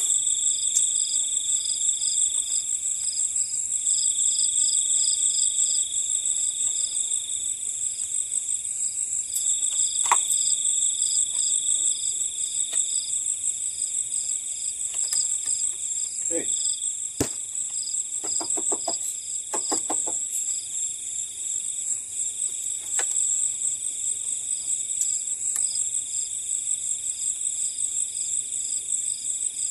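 Night chorus of crickets and other insects: a steady high trill, a pulsing trill beneath it, and a lower trill that stops and starts. A few faint knocks, and a short low pulsed sound about two-thirds of the way through.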